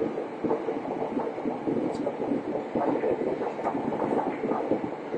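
Running noise inside a Chuo Line electric commuter train: a steady rumble of the moving carriage on the rails.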